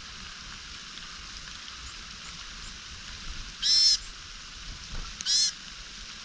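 A small wild bird gives two short, harsh, buzzy calls about a second and a half apart, over a steady background hiss.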